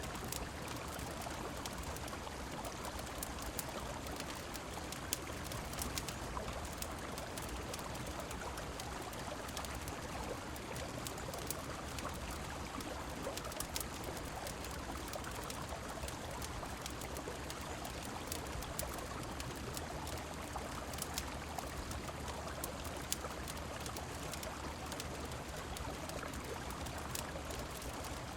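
A river running, with rain, in a steady rushing wash, over which a wood fire crackles with scattered sharp snaps.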